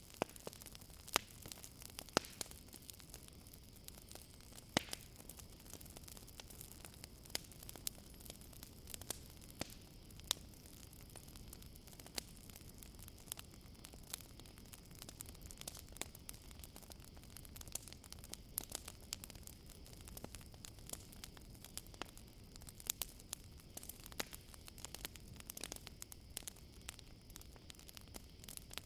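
Campfire crackling, with irregular sharp pops and snaps of varying strength over a soft steady hiss. Behind it, a steady high chirring of crickets.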